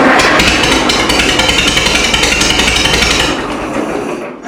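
Minneapolis Moline tractor engine running steadily with its freshly cleaned ignition points, then winding down and dying away near the end.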